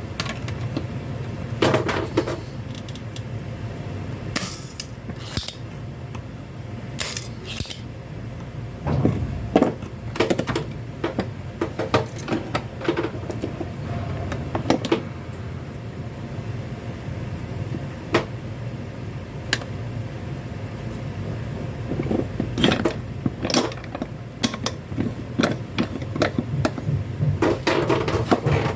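Scattered clicks, taps and clatter of small tools and hard plastic toy parts being handled, over a steady low hum, with busier spells of clicking about two seconds in, in the middle, and near the end.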